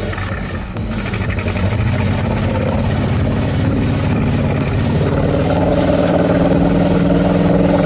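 Pickup truck engine running hard, its note building and holding steady through the second half.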